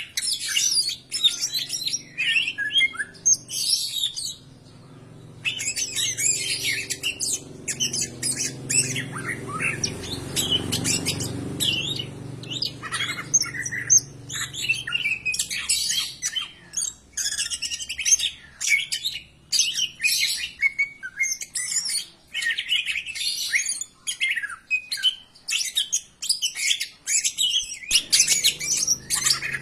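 Greater green leafbird (cucak ijo) singing a long, rapid run of varied loud whistles, chirps and trills, with a brief pause about four seconds in.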